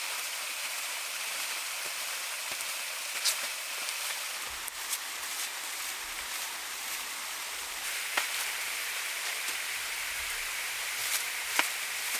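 Steady hiss of water, with several short sharp knocks scattered through it, the loudest about three seconds in and near the end.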